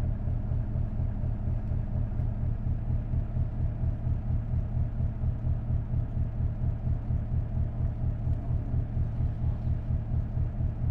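Isuzu Erga city bus's V8 diesel engine running, heard from inside the cabin as a steady low rumble with an even, regular throb.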